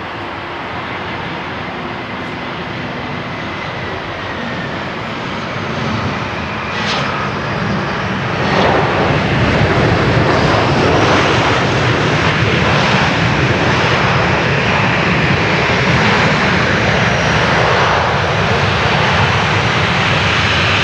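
Lufthansa Airbus A319-100 jet airliner on approach to the landing runway, its engine noise swelling over the first eight seconds and then holding loud as it passes. A faint high whine glides through the roar.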